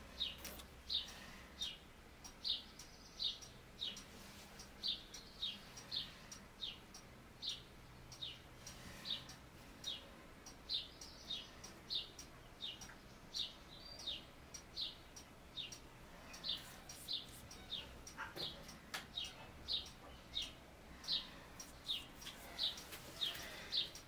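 A bird chirping a short, high note over and over, about one to two chirps a second.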